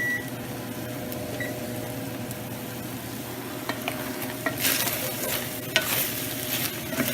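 Chunks of chicken breast frying in a pan, with a low sizzle. From about halfway through they are stirred and the sizzle comes in louder bursts, with sharp clicks of the utensil against the pan.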